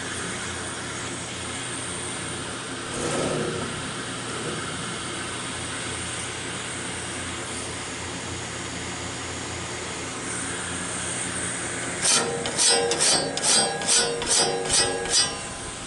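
Pneumatic air tool grinding a sawmill bandsaw blade tooth: a steady airy hiss, then near the end about eight short, louder bursts, a little under three a second.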